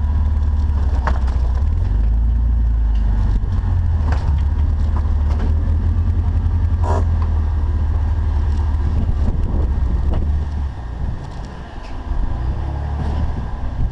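Jeep engine running at low revs while crawling over rock, with scattered knocks from the vehicle and terrain. The engine rumble drops off about ten seconds in.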